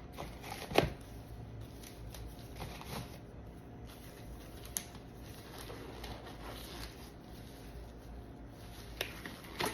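Soft rustling and handling of disposable gloves, with one sharp snap about a second in and a few faint clicks later.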